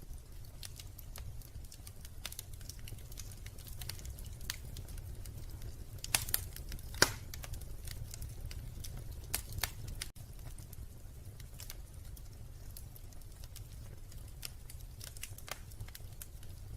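Wood fire crackling in a fireplace: irregular sharp pops and snaps over a low steady rumble, with a few louder pops about six and seven seconds in and again near nine and a half seconds. The sound drops out for a split second about ten seconds in.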